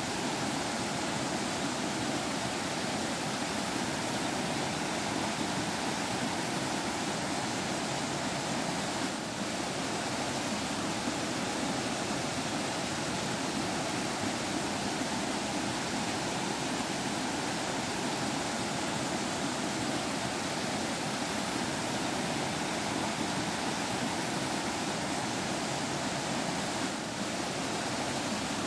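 Forest stream flowing steadily, a continuous babbling rush of water that dips briefly twice.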